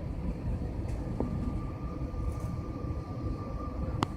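Steady airliner cabin noise in flight: a low engine and airflow rumble with a faint steady whine, and a short sharp click near the end.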